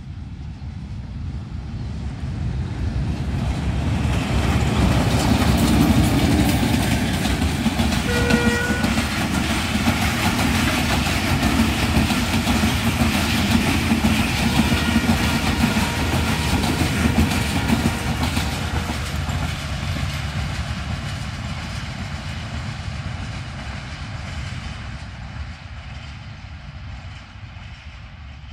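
Diesel-hauled passenger train passing at speed: the locomotive grows louder as it approaches, sounds a short horn blast about eight seconds in, then the coaches' wheels run past on the rails and the sound fades as the train draws away.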